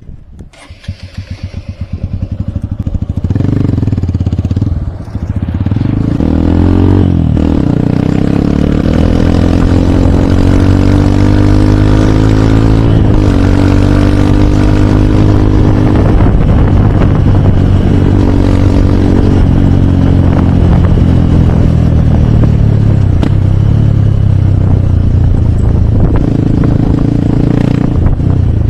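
Hero Hunk's 150 cc single-cylinder motorcycle engine pulling away from a near-idle and revving up through the gears, with upshifts about seven and thirteen seconds in, then running steadily at cruising speed.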